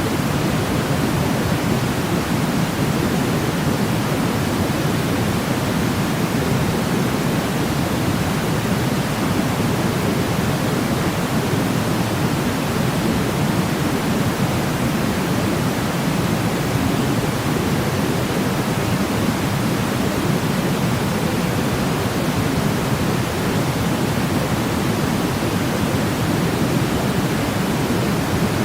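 Steady white noise for sleep: a constant, even hiss that is deepest and strongest in the low range, with no change in level or pattern.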